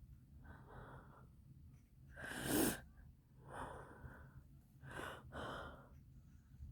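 A person's audible breathing: a series of short, airy breaths about once a second, the loudest a sharp intake about two and a half seconds in.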